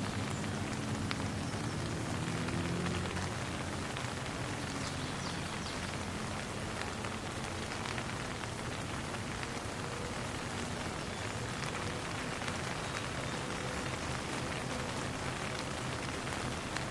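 Steady rain falling on a pond, an even hiss of many small drops. A faint low hum sits underneath, strongest in the first few seconds.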